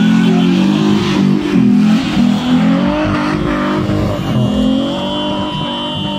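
Nissan pickup's 3.0-litre V6 engine revving high under load as the truck spins donuts with its wheels spinning in loose dirt. The pitch rises and falls over the first few seconds, then holds steadier near the end.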